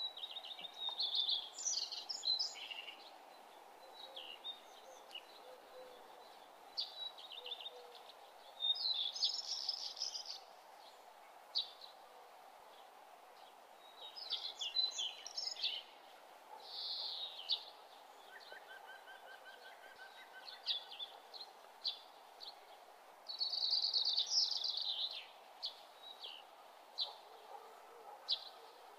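Small birds chirping and twittering in short bursts every few seconds, over a faint steady hum.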